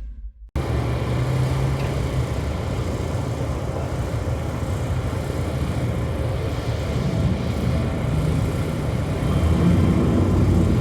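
Twin-turbo Chevy Nova drag car's engine running steadily at idle, getting somewhat louder near the end.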